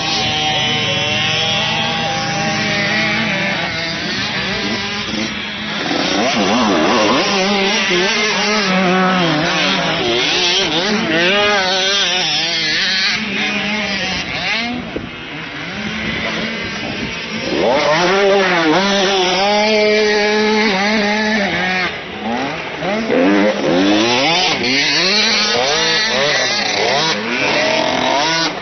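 Motocross bike engines on a track, revving up and down as the riders throttle off and on again. The pitch rises and falls over and over, and at times two engines overlap.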